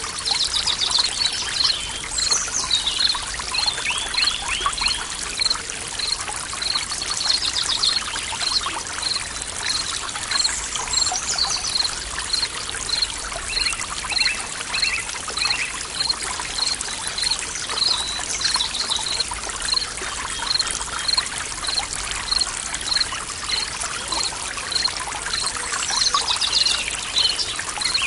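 Forest stream trickling and pouring steadily while birds sing: one bird repeats a short high chirp about twice a second, and others break in now and then with quick trilled phrases.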